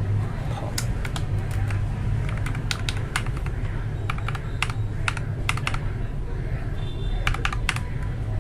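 Irregular clicks and clacks of keys on a mechanical keyboard fitted with freshly lubed Akko Matcha Green switches, pressed several times a second in uneven bursts, over a steady low hum.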